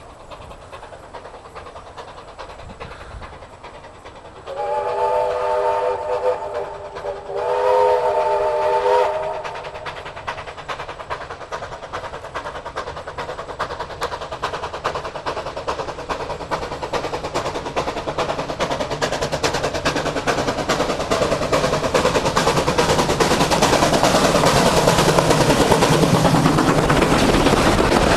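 Steam locomotive 1072's whistle blows twice, two chord-like blasts each about two seconds long, a few seconds in. Then the running train grows steadily louder as it comes closer, a dense rhythmic clatter and rumble.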